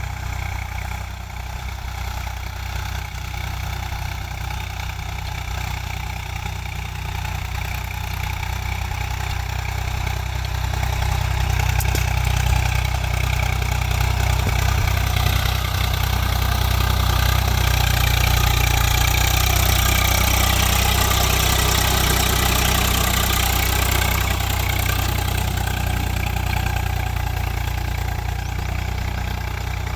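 Swaraj 744 FE tractor's three-cylinder diesel engine running steadily, growing louder from about a third of the way in and easing off slightly near the end.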